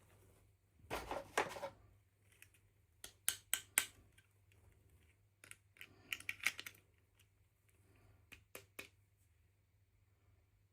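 Small plastic toy pieces being handled: a brief rustle about a second in, then several short groups of light clicks and taps.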